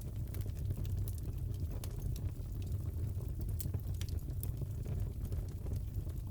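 Crackling fireplace fire: a steady low rumble with scattered small sharp pops and snaps.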